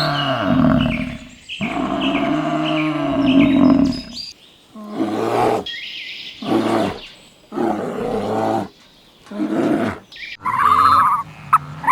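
Farm animals calling: two long, low calls of about two seconds each, then a run of shorter calls with pauses between them, and higher-pitched calls near the end.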